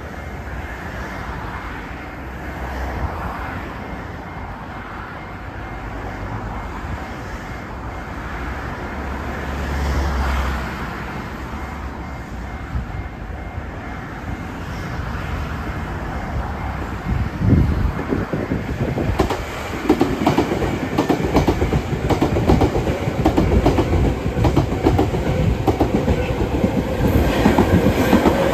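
A Nankai Kōya Line electric train approaching and passing over a level crossing: a low rumble builds for about seventeen seconds, then the wheels clatter rapidly over the rail joints, growing louder and staying loud as the carriages go by.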